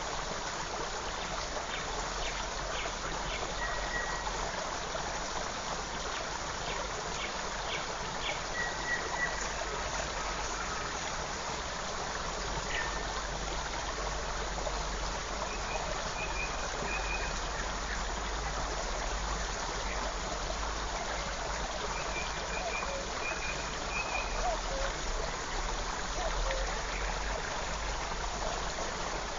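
Forest stream running steadily, with faint bird calls over it: a few short chirps in the first half and short runs of quick, high repeated notes later on.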